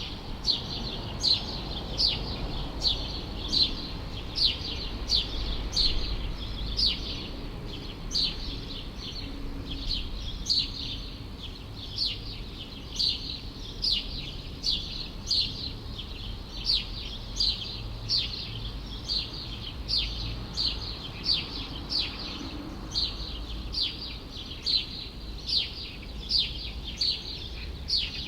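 A small songbird repeats one short, falling chirp over and over, about every two-thirds of a second, over a steady low rumble of city background noise.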